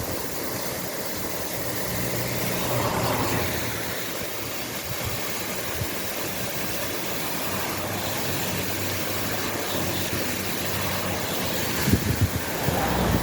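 Storm runoff rushing down the hillside as a waterfall, a steady loud rush of water, with a low steady engine hum underneath. Wind buffets the microphone near the end.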